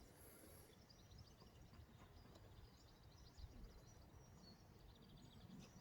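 Near silence: faint birds chirping now and then over low background noise.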